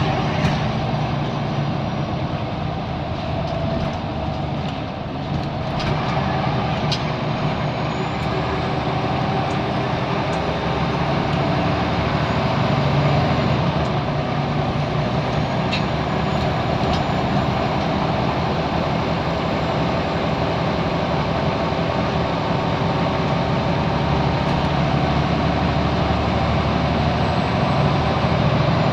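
Scania L94UB Wright Solar bus's 9-litre five-cylinder diesel engine running steadily as the bus drives, with a few brief rattles and a faint high whine that rises slowly twice.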